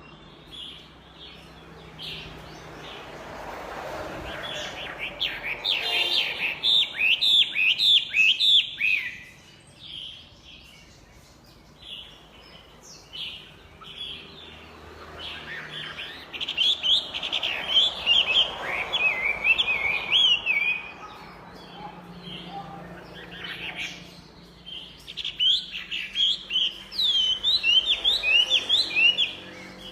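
A Chinese hwamei singing: three loud bouts of fast, varied, whistled phrases full of quick up-and-down sweeps, with softer scattered notes between the bouts.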